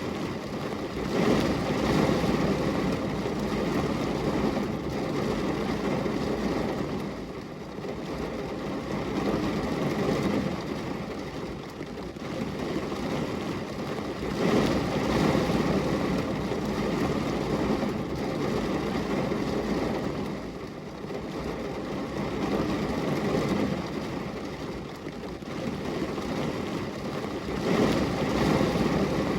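Rain falling on a glass window pane: a steady hiss of rain that swells and eases every several seconds.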